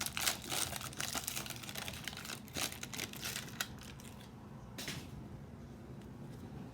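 Crinkling and crackling of trading-card pack wrappers and cards being handled: a dense run of sharp crackles over the first four seconds, one more burst just before five seconds, then quieter.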